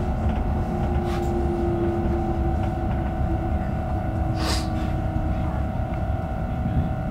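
Cabin noise of a Stockholm X60B (Alstom Coradia Nordic) electric commuter train on the move: a steady rumble from wheels and track with a steady hum over it. A brief hiss comes about four and a half seconds in.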